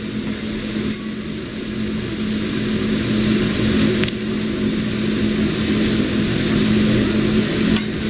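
Food sizzling on a hot hibachi griddle, a steady hiss over a constant low hum, with a few faint light clicks.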